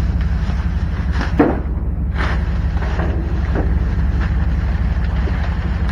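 A rake scraping and knocking through the contents of a dumpster: one sharp knock about a second and a half in, then several softer scrapes, over a steady low rumble.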